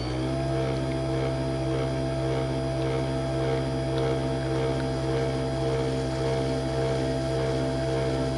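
Kitchen appliance motor spinning up to speed, its pitch rising and settling, then running steadily with a strong hum and a steady whine.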